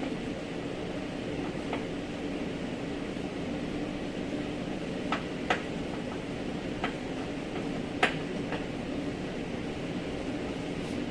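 Steady machine hum in a workshop, with a few sharp metallic clinks and taps from work on a car's body parts, the loudest about eight seconds in.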